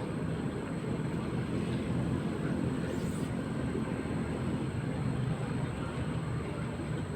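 Steady low drone of a ship's engines running while the vessel waits in port before sailing.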